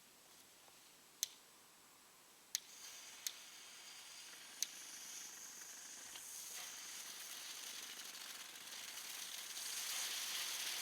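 Small category 1 fireworks going off: four sharp pops in the first five seconds, then a high fizzing hiss that builds steadily louder toward the end.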